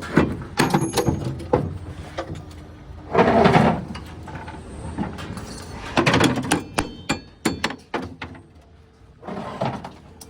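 Irregular knocks and clanks from handling formwork hardware, with two short scraping noises and a brief metallic ringing about two-thirds of the way through.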